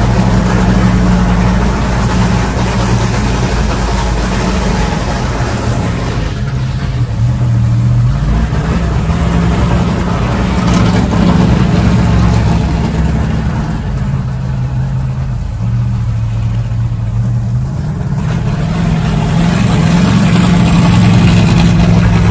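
Car engine running close by with a deep, steady rumble, its pitch stepping up and down several times as the revs change.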